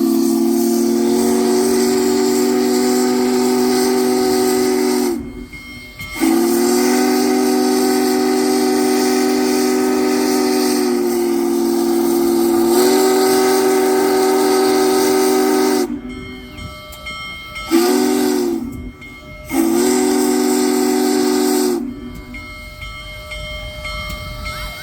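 Steam locomotive chime whistle blowing a chord in four blasts: long, long, short, long, the grade-crossing signal.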